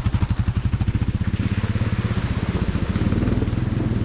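Kawasaki KLR 650's single-cylinder engine running as the motorcycle is ridden, a rapid even pulse that gets louder about three seconds in.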